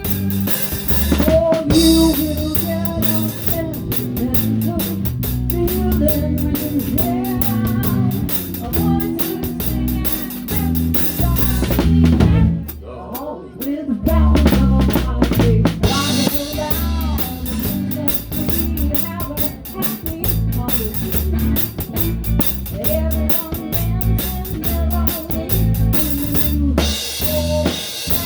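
Live rock band playing an instrumental section, heard close to the drum kit: kick, a towel-damped snare with rimshots, and cymbals over a walking electric bass line and bent lead guitar notes. The band stops briefly about halfway through, then comes back in.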